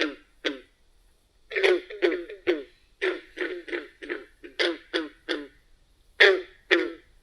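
Recorded frog calls: about twenty short croaks in irregular clusters, with brief pauses between the groups.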